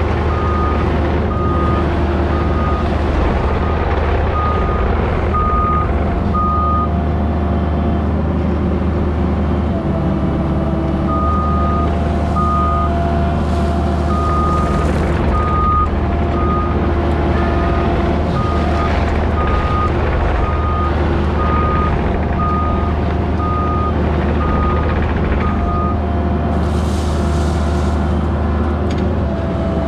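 Construction machine's engine running steadily while its backup alarm beeps about one and a half times a second, pausing for a few seconds about a third of the way in and stopping near the end, as the machine reverses while grading.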